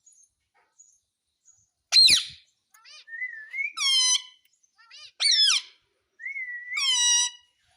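Pet parrot calling: a sharp screech about two seconds in, then a run of gliding whistled calls, the last two with the same rising-then-held shape.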